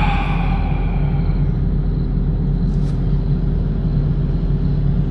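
Excavator's diesel engine running steadily with a low rumble. Right at the start a metallic clang rings out and fades over about a second and a half, and a short click comes about three seconds in.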